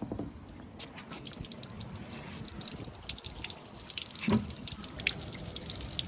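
Water draining out of a Cybertruck's storage locker through its open drain plug, a quick patter of drips and trickling that gets denser after the first second. A brief low thump stands out about four seconds in.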